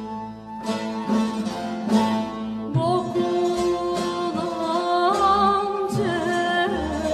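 Turkish zeybek folk song: plucked-string accompaniment, then a long held, wavering sung note that begins about three seconds in and runs over the strings.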